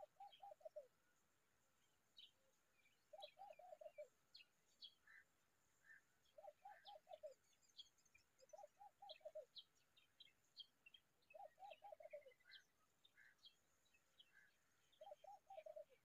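Faint bird calls: a low phrase of four or five quick falling notes repeats six times, every two to four seconds, over scattered short high chirps.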